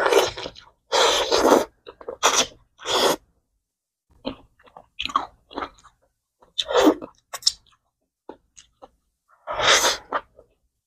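A person eating: bites and crunchy chewing in irregular bursts with short pauses between them.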